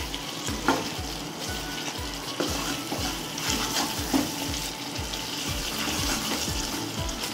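Chicken pieces frying in masala in a non-stick wok, sizzling steadily while a wooden spatula stirs them, knocking and scraping against the pan a few times. This is the bhuna stage, where the chicken is browned in the spice paste.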